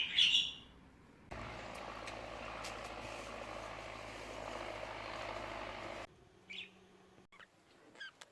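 A budgerigar gives a sharp chirp at the start. About a second later a steady noise with a low hum begins, lasts about five seconds and cuts off suddenly. After it come a faint short chirp and a few light clicks.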